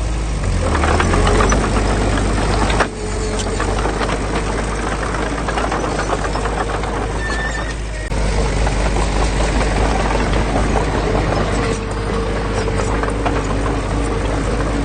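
Diesel engine of heavy earthmoving machinery running under load, with a continuous metallic clatter over the low engine drone. The sound breaks off abruptly about 3 seconds in and again about 8 seconds in, then carries on.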